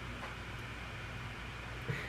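Quiet room tone: a steady low hum and faint hiss, with a small brief sound near the end.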